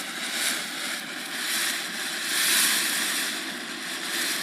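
A lit ground firework hissing steadily as it sprays, the hiss swelling a little past halfway through.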